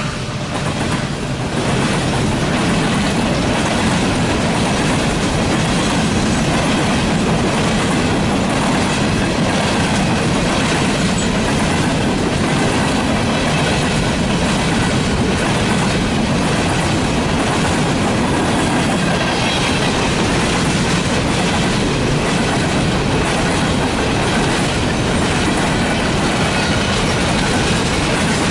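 Norfolk Southern train passing close by, its cars rumbling and clacking over the rails. The noise swells about a second or two in and then holds steady.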